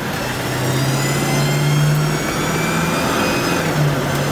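Ford 460 big-block V8 of a 1978 Mercury Colony Park station wagon pulling the car up to highway speed, heard from inside the cabin: a steady engine drone that climbs gradually in pitch, with a faint high whine rising along with it.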